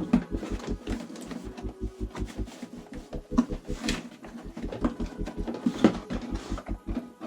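Scattered knocks and rattles of plastic vacuum parts being handled and fitted into a cardboard box, over a steady low beat pulsing about five times a second.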